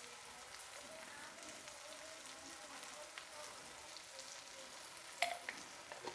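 Onion-tomato masala with ground spices sizzling faintly in oil in a kadhai, with a steady fine crackle. A few sharper clicks come about five seconds in.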